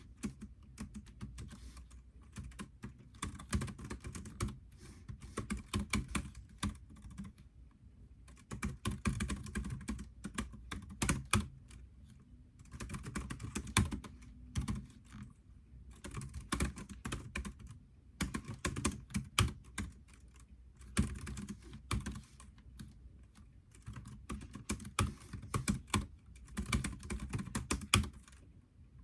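Typing on a computer keyboard: runs of rapid keystrokes lasting a second or two, broken by short pauses.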